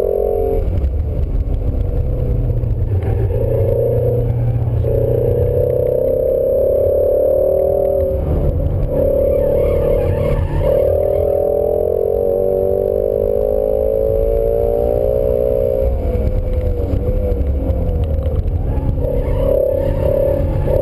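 2017 Ford Shelby Mustang GT350's 5.2-litre flat-plane-crank V8, heard from inside the cabin while driven hard on track. The engine note climbs under throttle and falls away several times as the driver lifts and brakes for corners, over steady road rumble.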